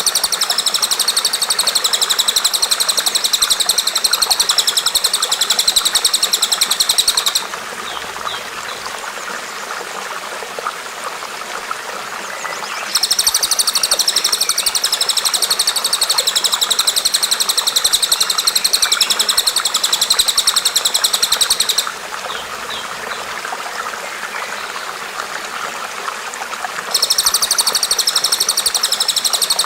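A bird's fast, even, high-pitched trill in long bouts of several seconds, stopping twice and starting again, over the steady rush of running water.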